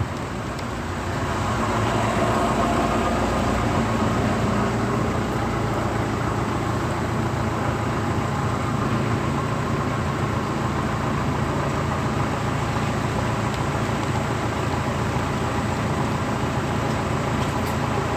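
Steady road traffic noise from an expressway, building over the first couple of seconds and then holding level, with a low hum underneath.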